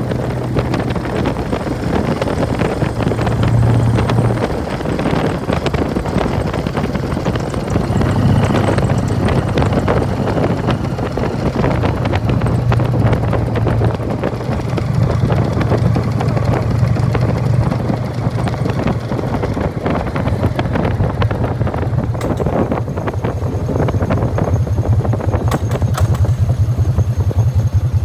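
1999 Harley-Davidson Fat Boy's Evolution V-twin running through Python mufflers while riding, with the clattering rattle of its open primary drive. The exhaust note rises and eases with the throttle. In the last few seconds it settles into an even, loping beat.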